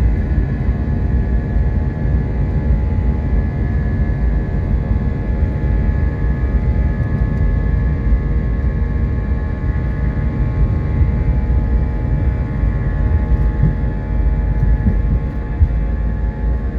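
Jet airliner cabin noise from an Airbus A320-232's IAE V2500 engines: a steady deep rumble with several steady whining tones above it.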